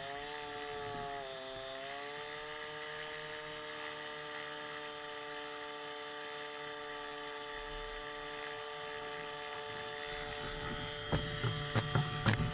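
Small two-stroke engine of a foot-launched powered hang glider running at a steady speed, its pitch wavering for the first couple of seconds and then holding steady. Several sharp knocks come near the end.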